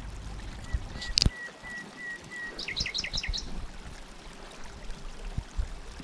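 Bird chirping: a run of short, even notes on one pitch, a sharp click just after a second in, then a quick series of about six chirps.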